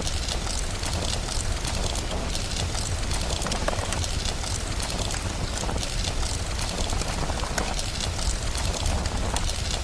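Steady rain with a fire crackling, many small sharp crackles over a constant hiss and a steady low rumble.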